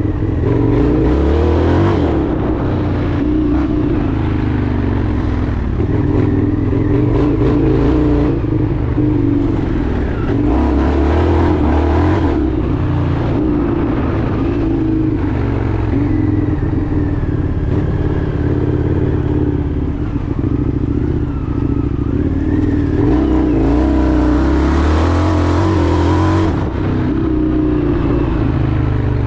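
Indian FTR 1200's V-twin engine running under way, its pitch shifting a little up and down with the throttle.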